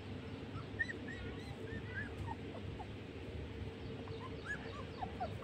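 Puppies whimpering: many short, high squeaks rising and falling in pitch, scattered and overlapping, faint.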